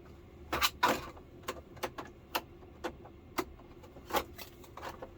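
Scattered sharp clicks and knocks, a dozen or so, from cable connectors being plugged in and small plastic parts handled on an LCD television.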